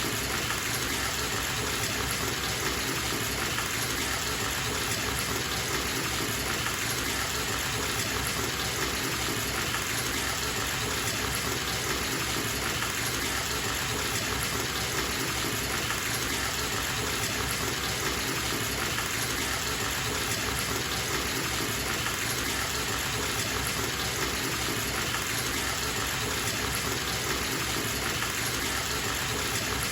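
Bathtub filling from a running tap: a steady, even gush of water pouring into the tub without a break.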